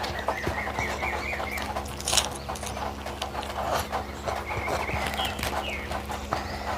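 A person eating close to the microphone, chewing with wet lip-smacks and clicks, with one sharper snap about two seconds in.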